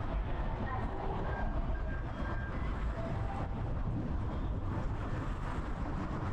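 Outdoor street ambience: a steady low rumble of passing traffic, with faint short tonal sounds over it.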